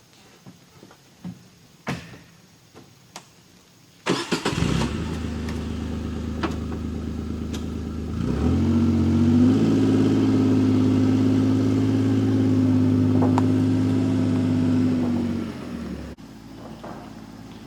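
Kawasaki Mule utility vehicle's engine starting abruptly about four seconds in, after a few light clicks and knocks. It runs steadily, rises to a higher, steady engine speed at about eight seconds, then drops away shortly before the end.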